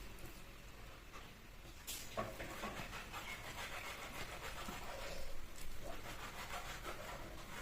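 Faint eating sounds: soft mouth and chewing noises with scattered light clicks and rustles of food being handled.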